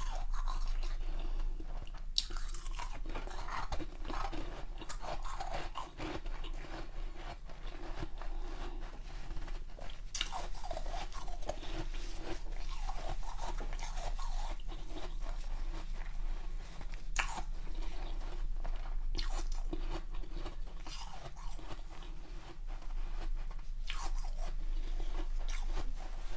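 Ice being bitten and chewed close to the microphone: continuous crunching, broken every few seconds by a sharp crack as a fresh piece is bitten off the block.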